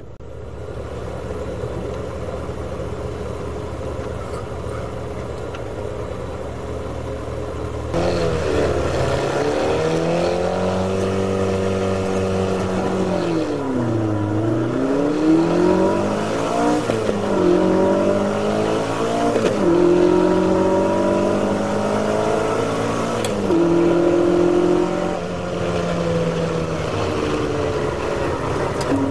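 A Ferrari race car's engine heard from inside the car. It runs steadily at low revs for about eight seconds, then goes to full throttle at the start. The revs climb and drop again several times as it shifts up through the gears.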